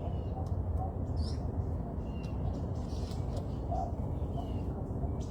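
Small birds giving short, scattered chirps over a steady low rumble.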